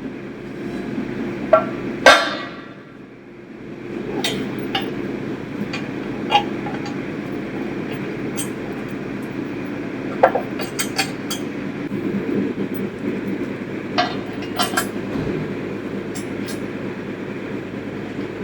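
Metal clinks and taps of steel parts and hand tools being handled, with a loud ringing clink about two seconds in and clusters of clinks later, over a steady low rumble.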